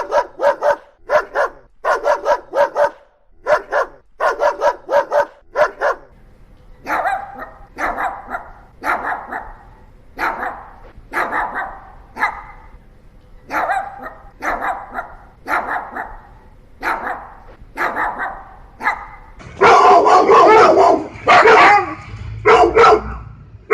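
A Boxer barking in quick runs of barks, then a Pomeranian giving single barks in a steady rhythm, then a Siberian Husky's louder, longer calls near the end.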